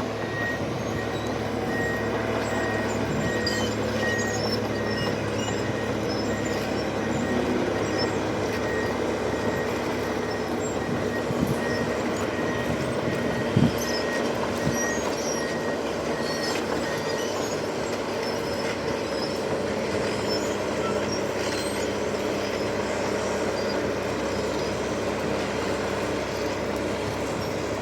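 Liebherr crawler bulldozer's diesel engine running steadily under work, with its reversing alarm beeping at an even pace until about two-thirds through. A single sharp metallic knock about halfway through.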